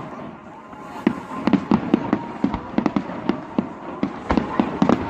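Aerial fireworks bursting in a rapid, irregular series of sharp cracks from about a second in, with a couple of deeper booms among them.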